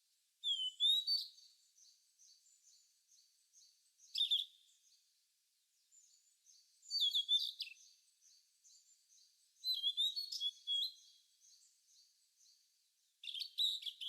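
Wild birds singing: one bird gives short, high, twittering song phrases five times, about every three seconds, over a second bird's faint, fast, rhythmic chirping.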